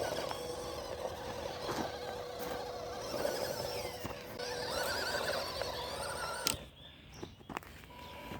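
Small electric motor of an MN168 RC crawler whining at a steady pitch over rustling and crunching of ground underfoot or under tyres. A sharp click about six and a half seconds in is followed by a short quieter stretch.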